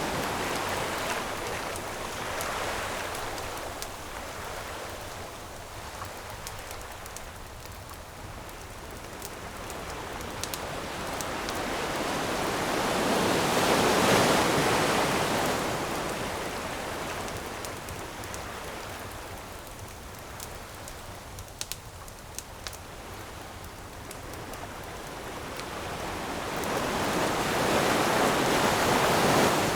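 Ocean waves washing in and drawing back, swelling to a peak about halfway through and again near the end. Scattered small pops and crackles of a wood campfire sound between the swells.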